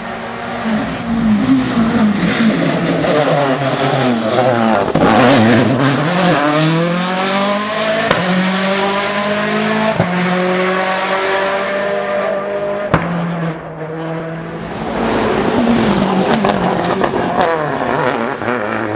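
Citroen C4 WRC rally car's turbocharged four-cylinder engine at high revs, its pitch falling and climbing again several times as the car lifts and accelerates, with a couple of sharp pops from the exhaust.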